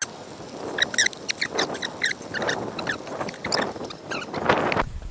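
A hooked fish being brought in on a bank rod: irregular sharp clicks over rising and falling rushes of splashing water.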